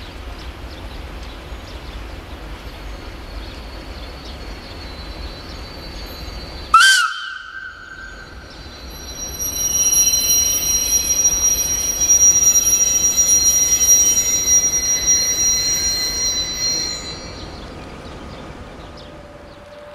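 Sulzer-engined Electroputere LDE2100 (CFR class 60) diesel-electric locomotive passing close with a freight train: a steady low engine rumble, then a short, very loud horn blast about seven seconds in. For several seconds after that, the freight wagons' wheels squeal in high tones.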